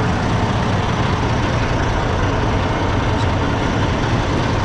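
Semi truck's diesel engine running steadily, a constant low rumble with an even noise over it.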